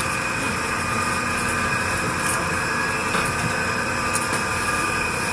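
A steady mechanical drone holding a few constant whining tones, with a few faint light ticks over it.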